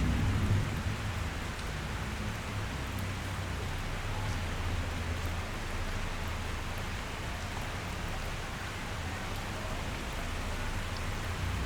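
Steady rain falling against a window: an even hiss of drops with a few sharper drop ticks. A low rumble dies away in the first half-second.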